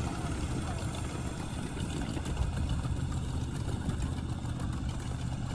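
A steady, low engine rumble, like an engine idling.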